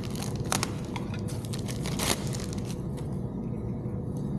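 Hands fitting radio installation parts: a run of sharp clicks and crinkling in the first few seconds, then fewer, over a steady low hum.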